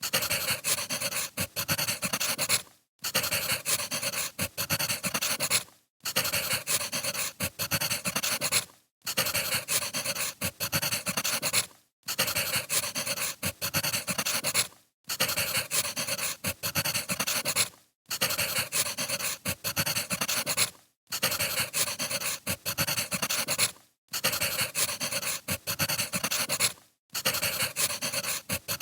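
Crackling wood fire: a dense hiss full of small pops and snaps, broken by a brief silence about every three seconds.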